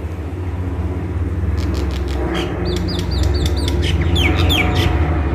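Small birds chirping in quick repeated bursts of rising and falling notes, starting about a second and a half in, over a steady low rumble of jet aircraft noise that slowly grows louder.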